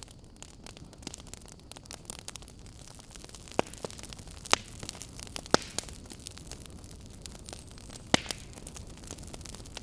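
Campfire burning: wood crackling with a steady hiss, dense small crackles and several sharper, louder pops from about a third of the way in.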